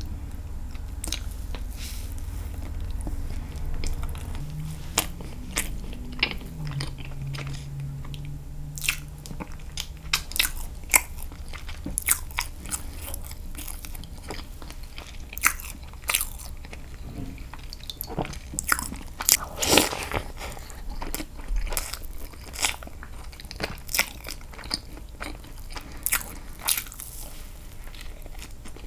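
Close-miked eating sounds: a person biting and chewing soft castella sponge cake dipped in milk, with irregular wet mouth clicks and smacks that come thicker in the second half.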